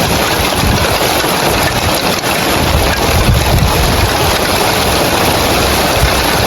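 Heavy rain pattering on roof tiles: a steady, dense hiss, with a low rumble underneath that swells and fades.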